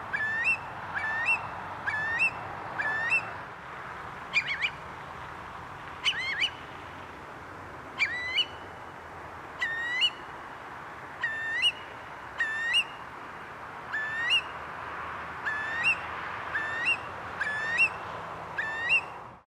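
Eurasian curlew calling over and over: loud whistled notes that each rise and hook upward, about two a second. There is a sparser stretch of a few calls from about four to ten seconds in before the rapid series picks up again. The calling is taken for a warning to keep away from a nest nearby.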